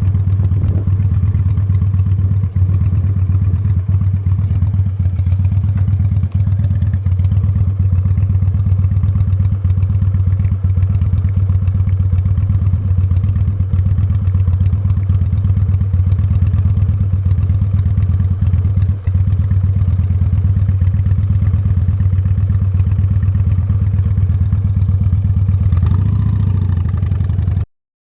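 Honda Steed V-twin motorcycle engine running steadily at an even speed while riding, with a faint rattle over it; the sound cuts off suddenly near the end.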